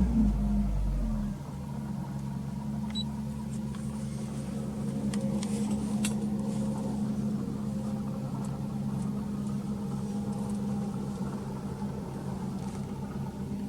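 Toyota Altezza RS200's 2.0-litre 3S-GE four-cylinder engine, fitted with an aftermarket exhaust manifold and 5ZIGEN muffler, falling back from a rev in the first second or so and then idling steadily.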